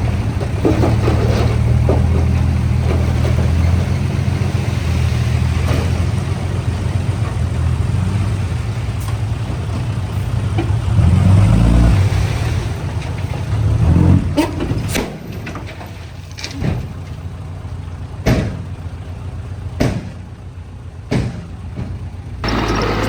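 Heavy-equipment diesel engine running with a steady deep hum, which eases off after about fourteen seconds. Several sharp knocks follow in the second half.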